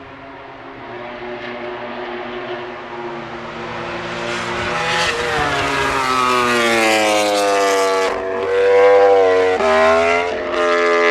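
A MotoGP prototype race motorcycle's engine accelerating hard as it approaches, growing louder with its pitch climbing steadily, then a quick series of upshifts near the end, each a sudden drop in pitch before it climbs again.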